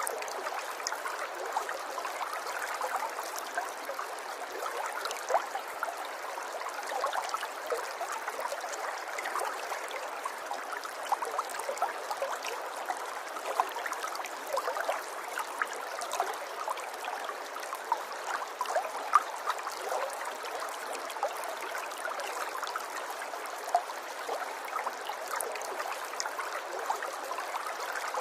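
River water flowing: a steady babble of many small splashes and gurgles, light and without any deep rumble.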